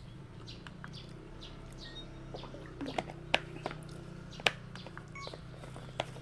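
Small birds chirping now and then, with short falling chirps, over a steady low hum. A few sharp clicks stand out about halfway through, the loudest sounds here.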